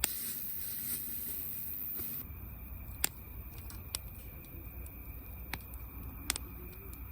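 Wood campfire crackling quietly: a soft hiss for the first two seconds, then a few sharp, separate pops about a second apart.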